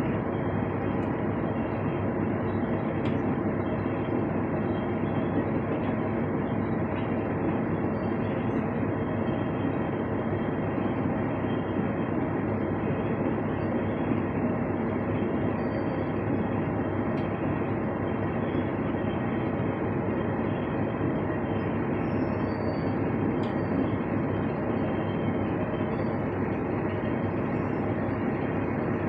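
Norfolk Southern freight train of empty oil tank cars rolling past, a steady unbroken rumble of wheels on rail.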